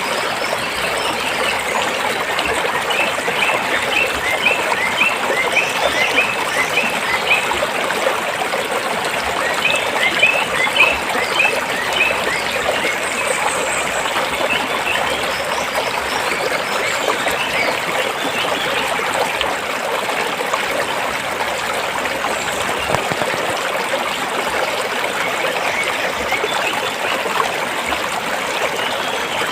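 Shallow stream flowing steadily over rocks. Runs of short high chirps, about two a second, come in over the water in the first half.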